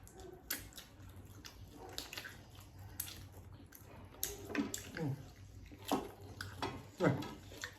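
Close-up wet eating sounds: chewing and lip-smacking with irregular clicks, and a few short slurps that fall in pitch in the second half.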